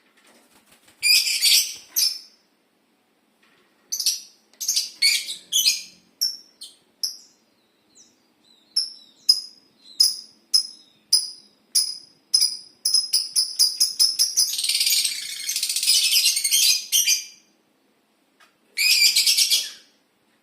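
Lovebirds calling: shrill, high-pitched chirps and squawks, a run of short repeated chirps about two a second, then a dense burst of chattering and a last loud shriek near the end.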